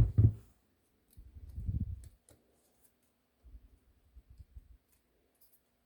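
Hands handling paper craft pieces on a work table: a sharp low knock at the start, a longer low rubbing about a second in, then softer bumps, with faint light clicks throughout.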